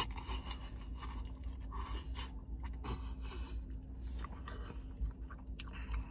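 A man chewing a mouthful of grilled cheeseburger close to the microphone: irregular chewing and mouth sounds over a low steady hum.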